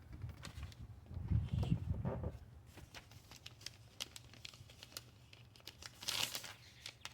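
Crinkling and rustling handling noises, like plastic or paper being crumpled, with a low rumble about a second in and a louder crackle about six seconds in.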